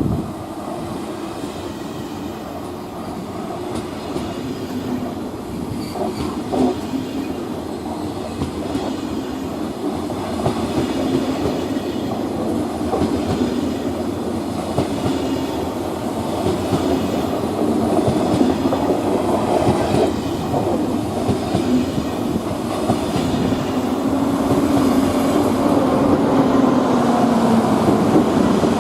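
Passenger train moving along the platform, its wheels clacking over rail joints. Under it runs a steady drone that rises and falls gently, and it grows louder toward the end.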